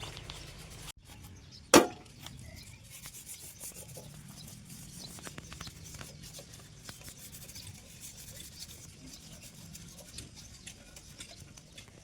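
Irregular rubbing and scraping with many small ticks, and one sharp knock about two seconds in.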